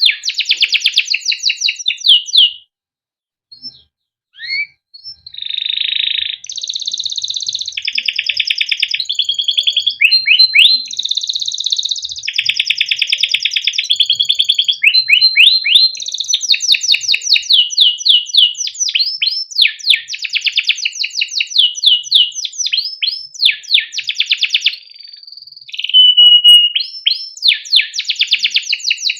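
Male canary singing a long song of rapid trills, rolls and repeated sweeping 'cuit cuit' chirps. It breaks off briefly about three seconds in and dips again near the end.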